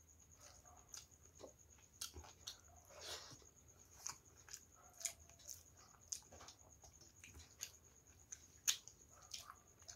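Close-up eating sounds: irregular soft wet clicks and smacks from chewing, and from fingers mixing rice and dal on a steel plate, with one louder click near the end.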